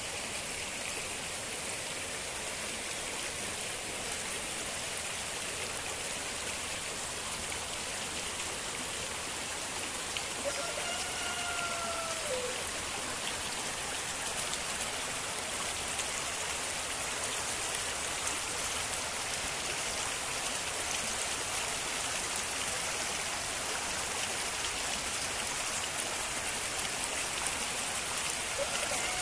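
Steady hiss of water from rain and a rain-swollen runoff stream. A rooster crows once about ten seconds in.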